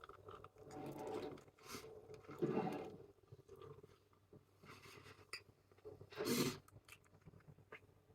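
Quiet, close eating sounds: a person chewing, with a few short crunches and scrapes coming and going.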